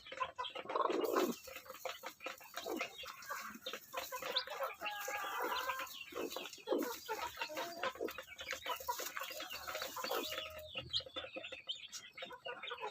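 Kampung (free-range village) mother hen clucking over and over in short calls, with a steady hiss behind it through most of the stretch.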